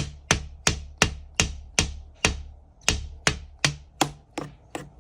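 A steady series of sharp taps or knocks, about three a second, each with a brief ringing tail.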